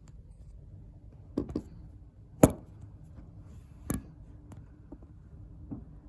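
A handful of short, sharp knocks and clicks, like something being handled or set down, the loudest about two and a half seconds in, over a faint steady low hum.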